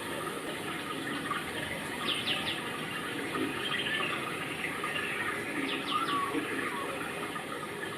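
Steady rush of running water, with short bird chirps twice: about two seconds in and again near six seconds.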